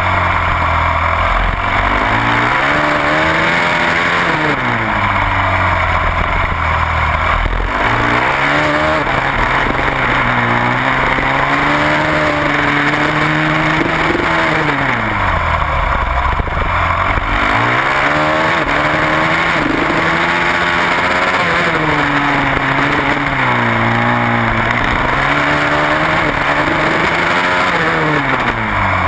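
Supermoto motorcycle engine heard from a camera mounted on the bike, revving up hard out of each corner and dropping off again as the rider shuts off and brakes, over and over through the laps.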